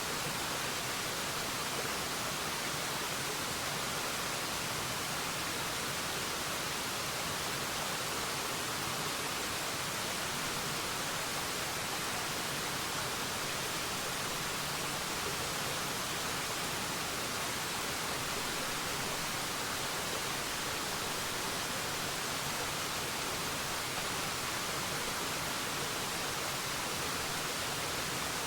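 Waterfall rushing, a steady, even hiss of falling water that does not change.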